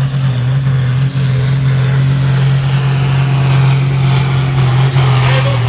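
International 1066 turbo tractor's diesel engine running hard under load during a pull, a loud, steady drone that holds one pitch.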